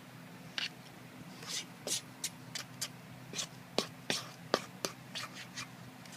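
Close-up mouth sounds of someone chewing a bite of muffin: a string of irregular wet clicks and smacks.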